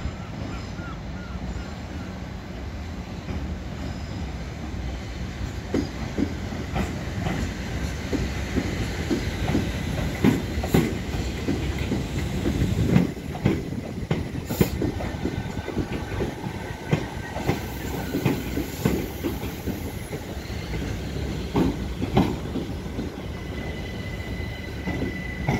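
Class 313 electric multiple unit running slowly into a platform, its wheels clicking and clacking irregularly over rail joints and pointwork over a steady rumble. A thin, high steady squeal sets in near the end as the train comes to a stand.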